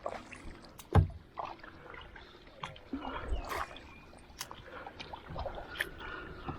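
Kayak and paddle knocking and bumping, with light water noise, as a kayak is put in and paddled off; a sharp knock about a second in is the loudest.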